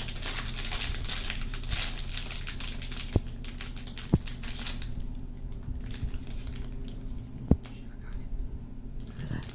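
Plastic packaging crinkling and rustling as a blind-box figure is unwrapped and handled, dense for about the first four and a half seconds, then quieter handling with a few sharp clicks.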